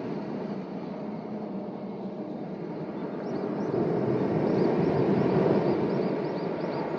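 Sea waves washing onto a rocky shore, a steady roar that swells about halfway through. A rapid series of faint, high chirps runs alongside in the second half.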